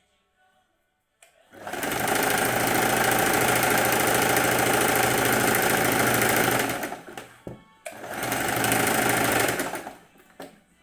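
Sewing machine running in two stitching bursts: a long run of about five seconds, a brief stop with a few clicks, then a shorter run of about two seconds.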